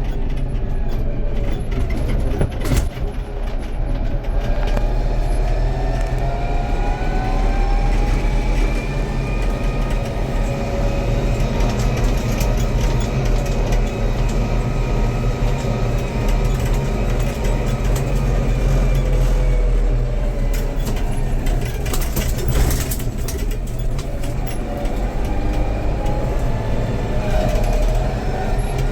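Tractor diesel engine running steadily while working a rotary tiller, with a whine that slowly rises and falls in pitch and a few brief clatters.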